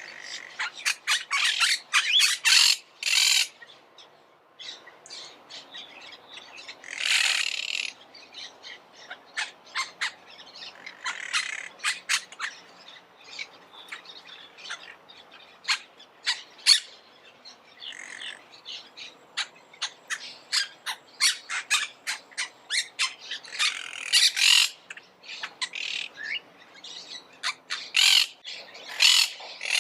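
Monk parakeets calling: many short, harsh, rapid squawks and chirps, clustering into noisy volleys of several birds at once, with quieter scattered calls between.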